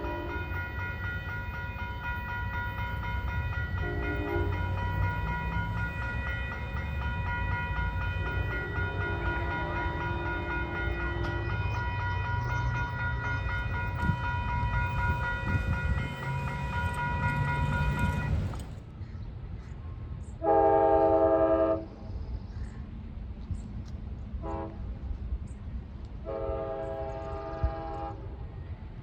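Train rumbling past with a steady whine of several high tones and a few faint horn notes. About two-thirds in the sound changes, and a diesel locomotive's multi-chime air horn sounds a loud long blast, a short blast, another long blast, and a further long one at the end.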